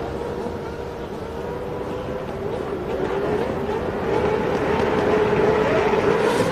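A grid of 1990 Formula One cars, V10 and V12 engines, running together: steady at first, then revving unevenly from about halfway and getting louder, as the field readies for the start.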